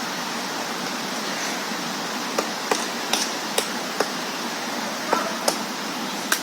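Woodpecker pecking at a tree: about eight single, sharp knocks a few tenths of a second apart, starting a couple of seconds in, over a steady background rush.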